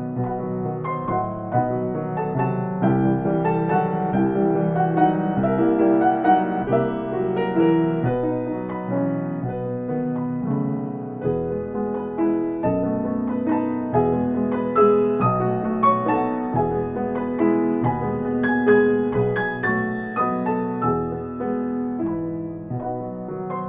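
Piano music, a continuous run of notes and chords.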